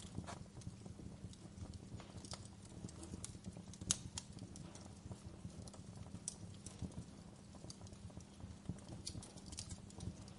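Wood fire crackling in a fireplace: frequent small irregular snaps and pops, the sharpest one about four seconds in, over a low steady rumble of the flames.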